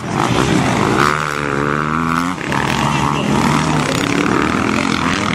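Motocross motorcycle engines running and revving, with a clear rise and fall in pitch between about one and two and a half seconds in.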